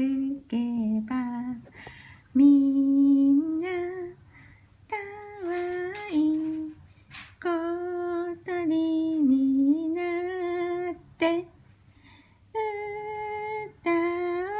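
A woman humming a slow lullaby melody in long held notes, phrase by phrase with short pauses between.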